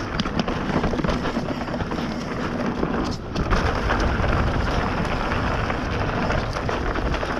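Bird Zero AM hardtail mountain bike riding fast down a dry, dusty dirt trail: a steady rush of tyre roar over dirt and stones, with constant small rattles and clatters from the frame and drivetrain, plus wind on the microphone. It goes briefly quieter about three seconds in.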